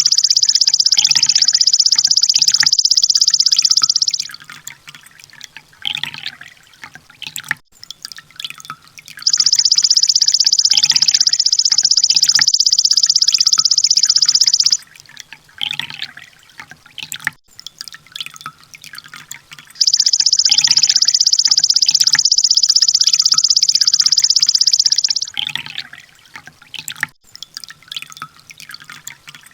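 Looped sunbird song for bird training: a very rapid, high-pitched trill that lasts about five seconds, stops, and comes again about every ten seconds, with softer scattered chirps in between.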